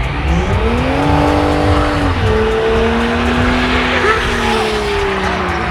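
A car's engine revving hard with its tyres squealing in a burnout. The revs climb in the first second and hold high, drop a step about two seconds in, then slowly sag.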